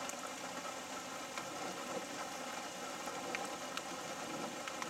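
Light rain pattering on a vehicle: a steady hiss with scattered drops ticking.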